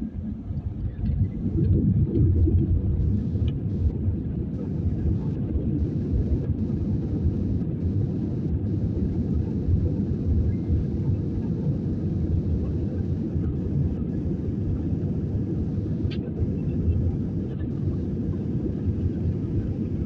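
Low steady rumble of a PIA Airbus A320-214 airliner, rising to full level about two seconds in and then holding steady.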